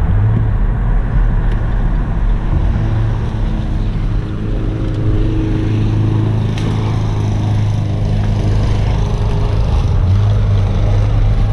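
2008 Buick Enclave driving: a steady low engine hum with road and tyre noise.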